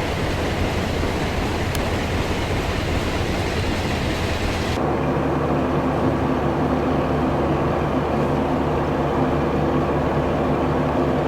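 Steady drone of a ferry under way: its engines running with the rush of the ship moving through the water. About five seconds in, the sound changes abruptly to a lower engine hum with several steady tones and less hiss.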